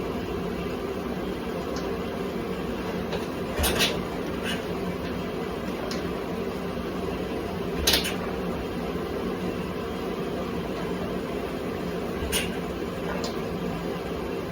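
1984 Honda XL600R single-cylinder engine popping during starting attempts without catching: three sharp pops about four seconds apart, with smaller clicks between, over a steady hum. The popping is the sign of ignition firing at the wrong moment, even though the timing has been set correctly and the CDI is set to fire at 0° BTDC.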